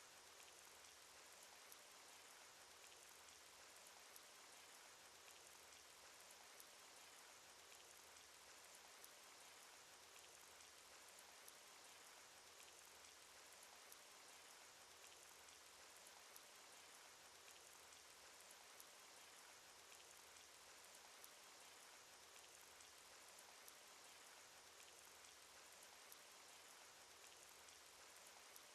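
Faint, steady cartoon rain sound effect: an even hiss of rainfall with scattered light ticks of single drops.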